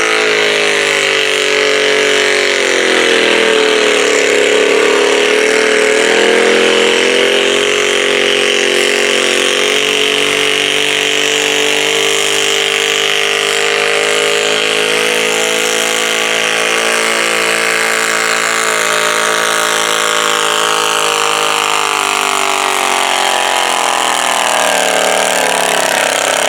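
Super stock garden tractor's engine running hard at high revs during a pull. Its pitch dips about two seconds in, holds steady and high through the middle, then slowly falls near the end.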